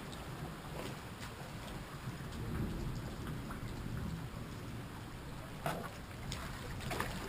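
Steady rain during a thunderstorm, with a low rumble underneath and scattered sharp taps of drops, the clearest a little before the end.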